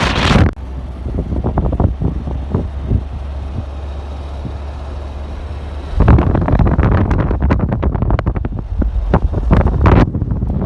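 Wind buffeting the microphone: a steadier low rumble for the first half, then gusty, crackling blasts from about six seconds in.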